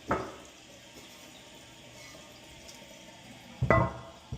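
Toilet tank refilling through a new fill valve, a faint steady run of water. A sharp knock comes just after the start, and a louder clunk that rings briefly comes near the end.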